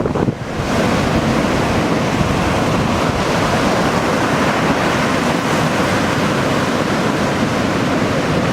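Heavy post-typhoon surf breaking and churning as a steady, loud wash of noise, with wind buffeting the microphone.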